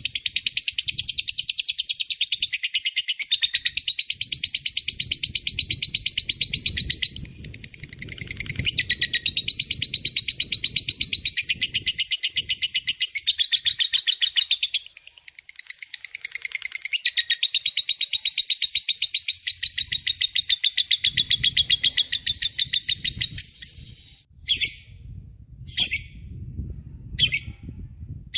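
Lovebird singing its long ngekek chatter: long runs of rapid, high repeated notes, broken by short pauses about seven and fifteen seconds in. Near the end the chatter stops and gives way to single sharp calls a little over a second apart.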